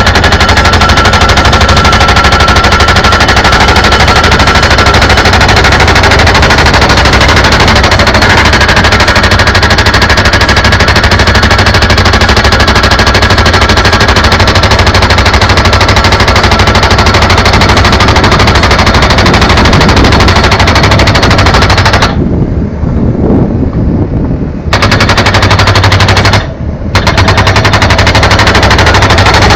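Jackhammer hammering rapidly and very loudly, with a steady low hum underneath; it stops briefly twice near the end and starts again.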